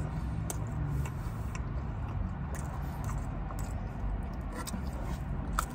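Chewing and mouth sounds of a person eating deep-dish pizza, with faint small clicks about once a second, over a low steady hum inside a car cabin.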